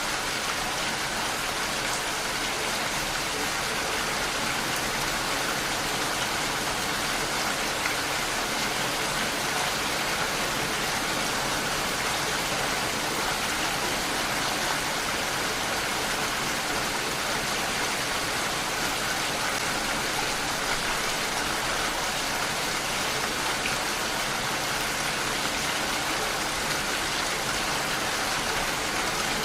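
Steady, unbroken rainfall: an even hiss of rain on surfaces with no distinct drops or events standing out.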